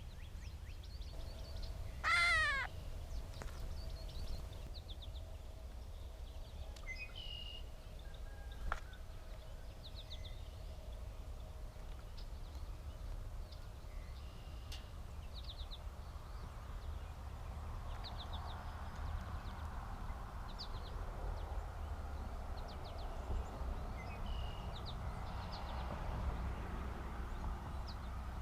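A gray catbird gives its harsh, cat-like mew call once, about two seconds in. Faint, scattered short chirps follow over a steady low rumble.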